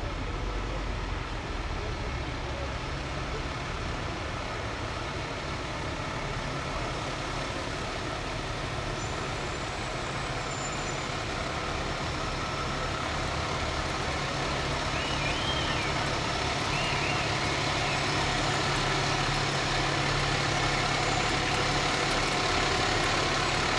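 Fire truck engine running steadily with a low hum as the truck rolls along, growing gradually louder over the second half.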